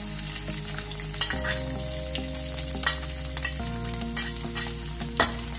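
Dried anchovies sizzling steadily as they fry in hot oil in an aluminium wok. A metal spatula knocks and scrapes against the pan now and then, most sharply a little after five seconds in.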